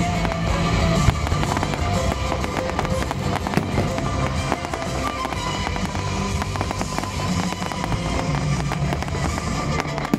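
Fireworks bursting and crackling in many quick, sharp cracks over the display's music.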